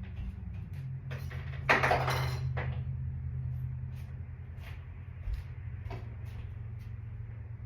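Household handling noises: a few light clicks and knocks, with a louder scraping noise lasting under a second about two seconds in, over a steady low hum.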